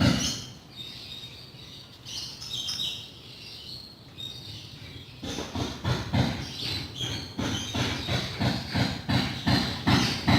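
Rapid, even back-and-forth rubbing strokes on a wooden cabinet's surface, about three a second, starting about five seconds in.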